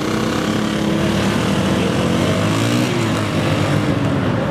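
Several motorcycle engines running at once, their pitches slowly rising and falling as they are revved.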